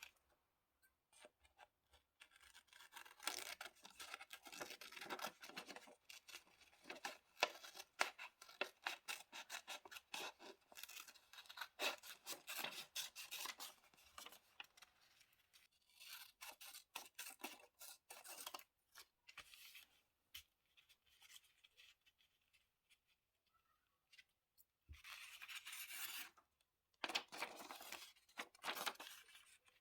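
Scissors snipping through paper in quick runs of short cuts, with a longer pause and then two brief bursts of cutting or paper handling near the end.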